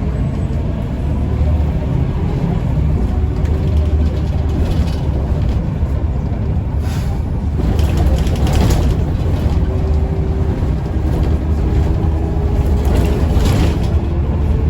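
Mercedes-Benz O405N2 city bus under way, heard from inside: a steady low rumble from the engine and running gear with a faint whine, and a few brief hissing surges.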